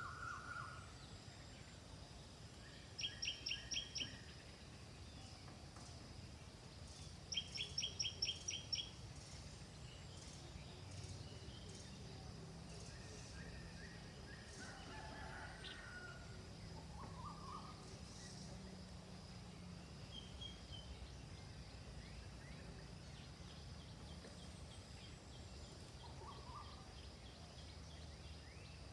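Birds calling: two quick runs of sharp, evenly repeated chirps, the first about three seconds in and a longer one a few seconds later, then scattered fainter calls, over a steady low background rumble.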